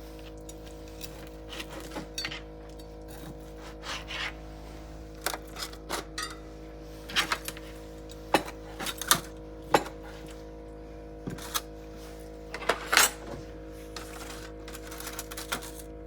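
Irregular clinks and knocks of kitchen utensils on cookware, a dozen or so scattered sharp hits that are loudest around the middle, over a steady hum.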